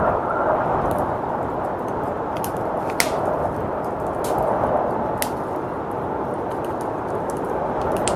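Wood fire crackling, with sharp irregular pops that are loudest about three and five seconds in, over a steady rushing of snowstorm wind.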